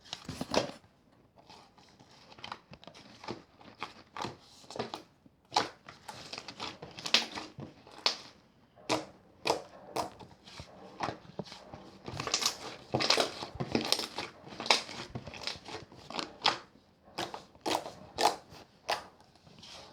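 Clear slime being squeezed and worked by hand, giving irregular sticky pops and crackles at uneven intervals.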